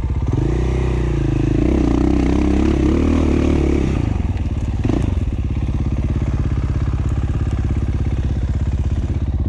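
2017 KTM 450 XC-F's single-cylinder four-stroke engine running under way on a trail. The revs rise about half a second in and move up and down with the throttle, dip sharply for a moment about five seconds in, then hold steady.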